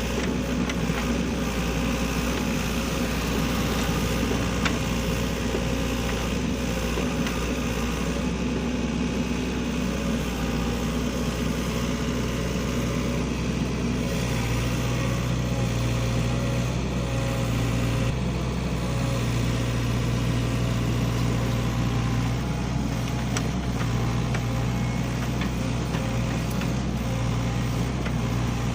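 SANY hydraulic excavator's diesel engine running steadily, its low engine note growing louder about halfway through.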